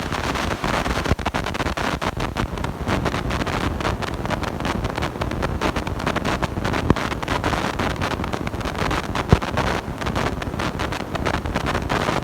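Steady, harsh crackling and rumbling noise from a blown-out microphone, with two sharper pops in the second half.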